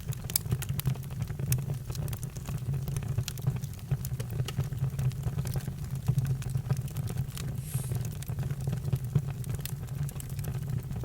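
Campfire crackling, with irregular sharp pops and snaps over a steady low rumble of the burning fire.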